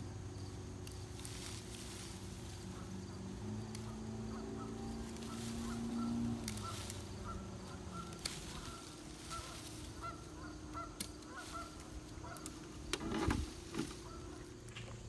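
Repeated short calls of birds, a run of evenly spaced honking notes over a low steady hum, with a few sharp knocks near the end.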